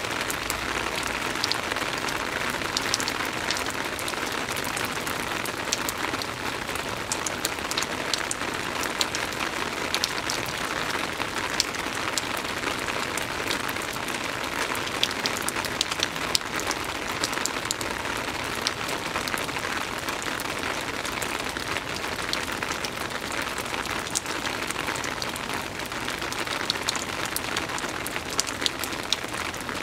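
Soft rain falling steadily, with many separate nearby drops tapping all through it.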